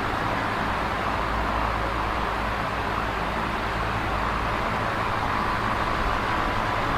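Large box fan running steadily: an even rushing of air with a low motor hum underneath.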